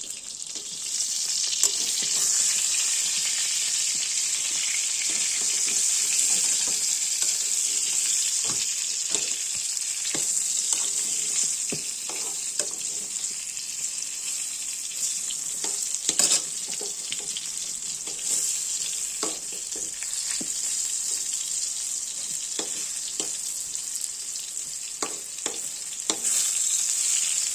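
Brinjal (eggplant) frying in hot oil: a steady sizzle that builds up about a second in, with scattered light clicks and knocks.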